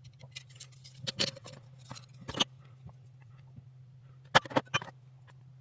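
Kitchen handling sounds of food preparation: scattered sharp clicks and short scrapes, loudest in a quick run of three taps about four seconds in, over a low steady hum.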